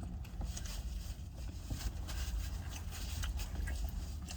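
Eating sounds of someone working through a McDonald's sausage burrito: scattered small clicks and crinkles from chewing and handling the wrapper and napkins, over a steady low rumble.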